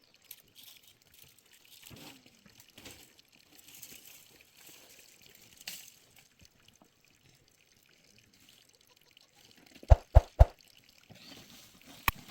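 Faint liquid trickling and pouring in short, uneven spells. About ten seconds in come three sharp knocks close together.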